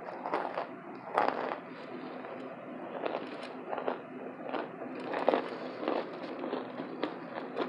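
Close-miked chewing of chunks of a burnt cornstarch brick: crisp, irregular crunches, several to a couple of seconds apart, with the loudest bites about a second in and about five seconds in.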